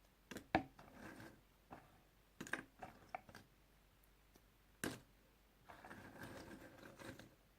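Puzzle pieces handled close to the microphone: scattered light clicks and taps, one sharper click about five seconds in, then a soft rustling near the end.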